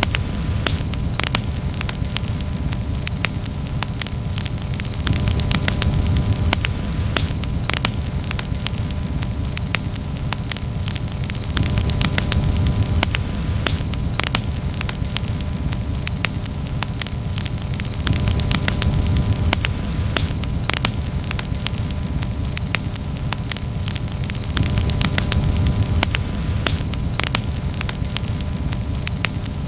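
Wood campfire crackling: frequent, irregular sharp pops and snaps over a steady low rush.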